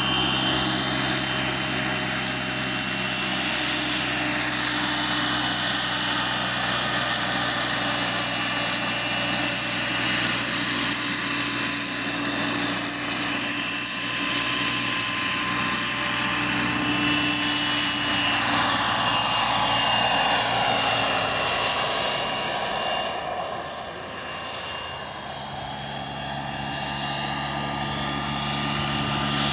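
Radio-control model helicopter powered by a Wren 44 miniature gas turbine, running with a steady high turbine whine over the low beat of the rotor. About three quarters of the way through, the sound gets quieter and shifts in pitch for a couple of seconds, then comes back to its earlier level.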